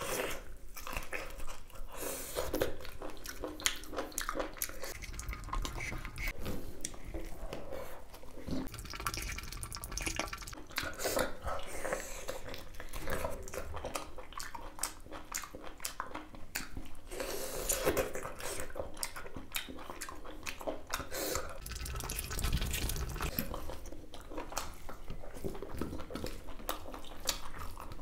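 Close-miked wet chewing and mouth sounds of a person eating chewy beef innards: a continuous run of small moist clicks and smacks.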